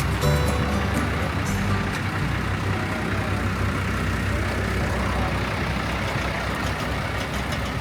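Steady low engine rumble with a rushing noise, from a moving vehicle. Background music fades out over the first couple of seconds.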